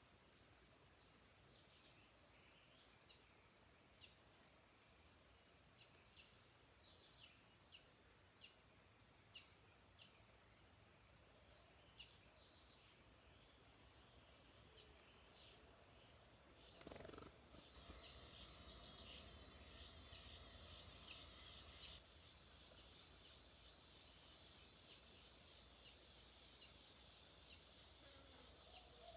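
Faint, scattered high chirps and short calls of forest birds. About halfway through, a high, rapidly pulsing buzz starts up and carries on to the end, loudest for its first few seconds.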